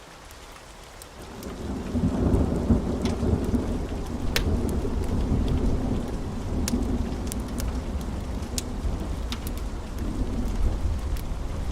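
Thunder rolls in over steady rain about a second in, building to a long, deep rumble that keeps going. Scattered sharp crackles run through it.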